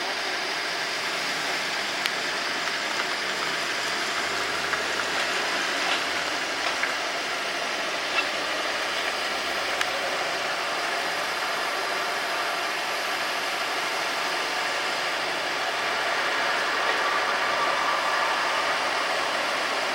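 Steady street traffic noise with a motor vehicle engine running, a few faint clicks, growing a little louder near the end.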